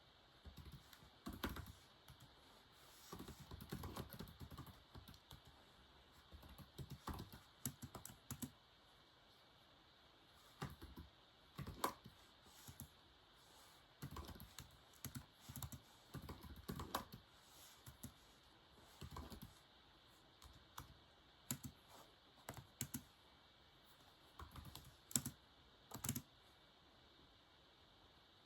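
Typing on a keyboard: key clicks in irregular bursts of a few strokes, broken by short pauses.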